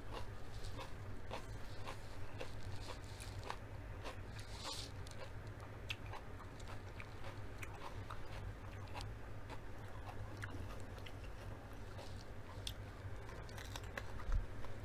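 Close-up mouth sounds of a person eating a crisp raw yellow sweet pepper: chewing with many small crunches and wet clicks, and a louder bite near the end. A steady low hum runs underneath.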